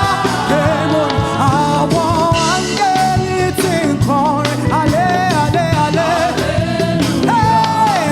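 Live gospel praise-and-worship music: a singing voice carries the melody, holding and sliding between notes, over a band with drums keeping a steady beat.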